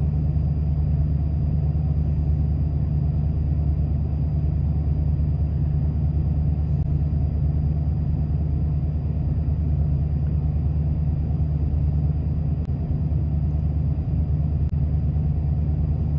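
1993 Ford F-150 engine idling with a steady low hum, an idle the owner calls "like garbage". The codes it is throwing point to a faulty throttle position sensor that has put it in limp mode.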